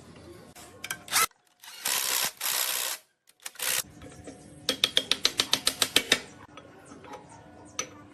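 Workshop hand-tool work on metal: a few sharp clicks, two bursts of hissing noise, then a run of about a dozen quick, even clicks.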